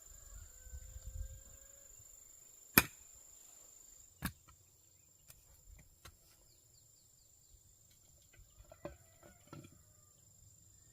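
Two sharp knocks about a second and a half apart, the first the loudest, then a few fainter ticks near the end, over a steady high-pitched insect whine.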